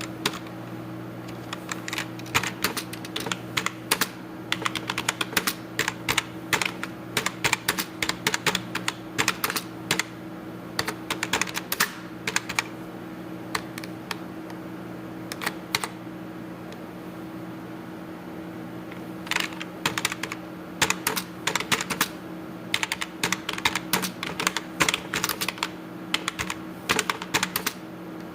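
Typing on a computer keyboard: quick irregular runs of keystrokes, with a pause of a few seconds past the middle, over a steady low hum.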